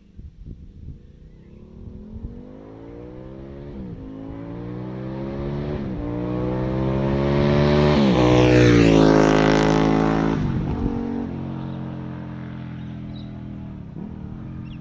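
Aprilia Tuono motorcycle accelerating hard through the gears, its engine note climbing and dropping back with each of three upshifts, then sweeping past loudest about nine seconds in and fading away at a lower, steadier pitch.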